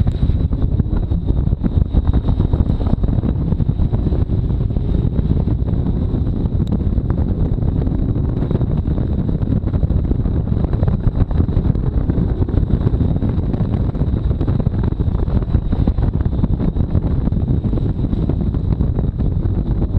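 Chevrolet Camaro ZL1 1LE's supercharged V8 running under throttle on a wet autocross course, with heavy wind buffeting on the microphone over the engine and road noise. A thin, steady high whine runs underneath.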